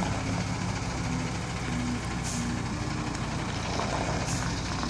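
Heavy truck's diesel engine running steadily, with two short hisses of air about two seconds apart.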